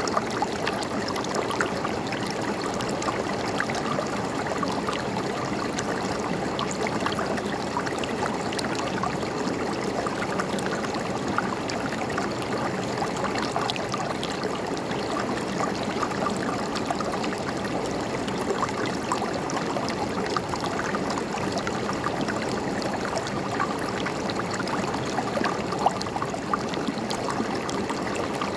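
River water running and gurgling steadily over stones, with many small splashes and droplet sounds.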